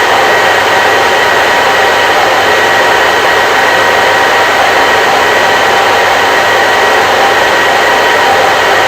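Electric hair dryer running continuously: a loud, steady rushing of fan and air with a faint whine from the motor, unchanging throughout.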